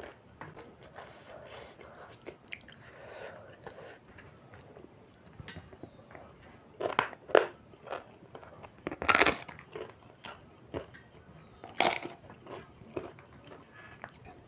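Close-miked mukbang eating: soft chewing and mouth sounds, broken by a few loud, crunchy bites, the loudest a little past the middle.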